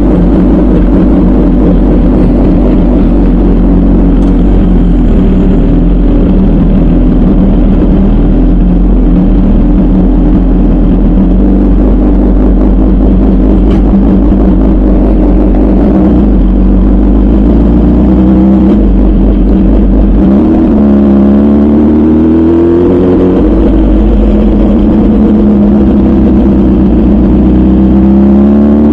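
MV Agusta Brutale 1000RR's 998 cc inline-four running loud through a full titanium Arrow exhaust under way. The revs hold fairly steady, swing up and down about two-thirds of the way through, then climb again near the end as the throttle is rolled on.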